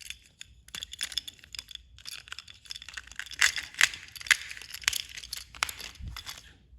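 Irregular plastic clicks, taps and scrapes as a small battery-powered toy train engine is handled and worked on.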